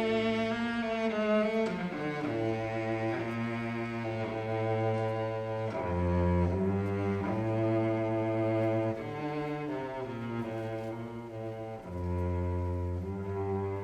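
Solo cello playing a slow melody of long held notes, changing every second or two, over low sustained orchestral strings.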